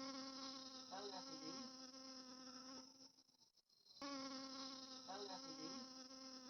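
Faint, steady buzzing of honeybees in flight, a low hum with a rich overtone. It stops about three seconds in and starts again about a second later.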